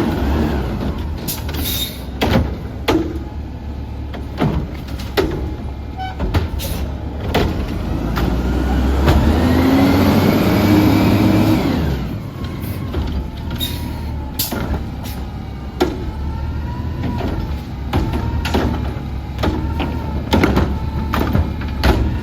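Autocar ACX garbage truck with a McNeilus Contender body running, its engine rising in speed for several seconds around the middle. Repeated metallic clanks and knocks sound throughout, and a wavering whine runs through the second half.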